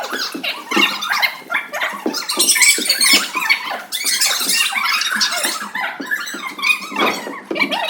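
A group of children shouting and squealing at once, a dense, constant din of overlapping high-pitched cries.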